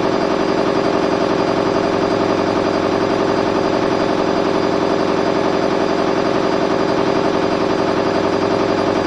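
Candy front-loading washing machine in its high-speed spin with a load of bed linen, running near its set top speed of 800 rpm. It is a loud, steady whir with a fast, even rattling pulse from the spinning drum.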